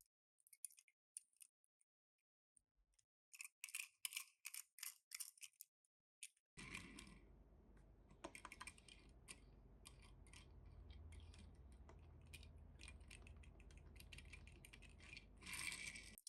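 Quick irregular clicks and light rustles of a Tomica mini car and its small cardboard box and plastic tray being handled and opened. A low steady hum comes in abruptly about six and a half seconds in and cuts off near the end.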